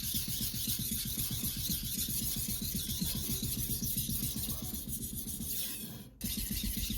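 A steel kitchen knife blade rubbing back and forth on a whetstone, a steady rasping, under background music. The sound drops out briefly about six seconds in.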